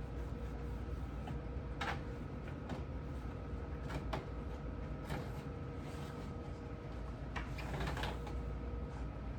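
Scattered clicks and knocks of items and fittings being handled during refrigerator cleaning, with a small cluster of them about eight seconds in, over a steady low hum.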